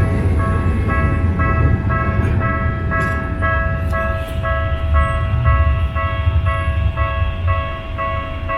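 Railway level-crossing warning bell ringing in a steady repeating pattern, about two rings a second, over the low rumble of a passing tram and traffic.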